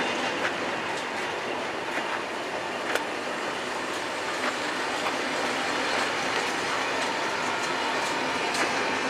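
SNCF Intercités Normandie Corail passenger coaches rolling past close by: a steady rush of wheel and rail noise, broken by a few sharp clicks, the sharpest about three seconds in.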